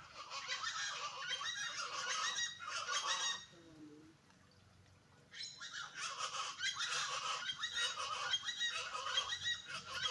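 A flock of birds calling noisily, many loud, overlapping honking calls at once, in two bouts with a short lull between them.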